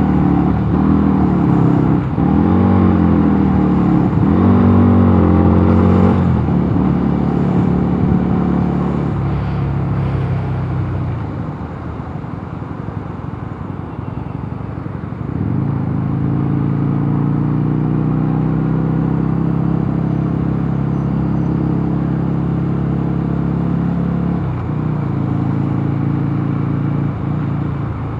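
Mondial Nevada 250 motorcycle engine running on the road, its pitch rising and falling for the first few seconds. It fades into an even road noise for several seconds, then comes back as a steady note about halfway through, with a short dip near the end.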